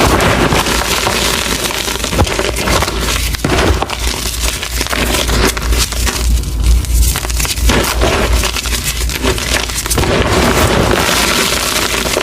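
Reformed gym chalk, pressed into heart shapes, being crushed and crumbled: a dense, continuous run of crunching and crackling.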